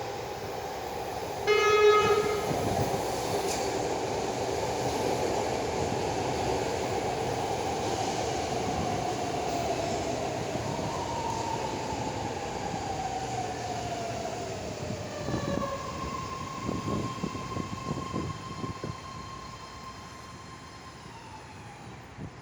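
BART train pulling into the station: a short, loud horn blast about two seconds in, then the train's running noise with a motor whine that falls in pitch as it slows. A steady higher tone sets in over the last several seconds as the noise dies down and the train comes to a stop.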